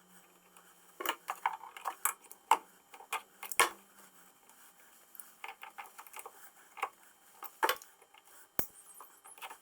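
Metal parts of a tram gear shifter clinking and knocking as it is put back together: an irregular run of sharp clicks and taps that starts about a second in.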